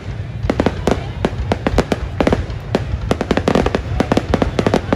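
Fireworks display: rapid, irregular bangs and cracks, several a second, over a steady low rumble.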